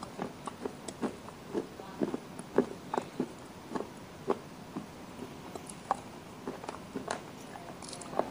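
Close-up chewing and crunching of slate pencil pieces and clay: irregular crisp crunches, about two a second, with a short pause about five seconds in.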